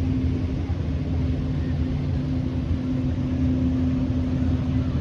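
Boat engine running steadily: a low, even drone with a constant hum.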